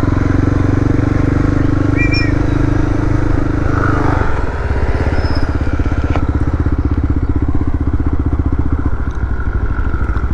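Suzuki DR650 single-cylinder engine running under way, a steady pulsing engine note that eases off about four seconds in.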